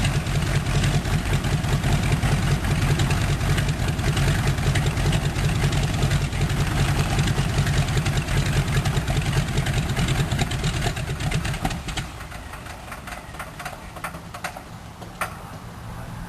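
Harvard Mk IV's Pratt & Whitney R-1340 nine-cylinder radial engine running with a rapid, uneven beat, just after a smoky start. About twelve seconds in, the sound drops away sharply, leaving a quieter background with a few clicks.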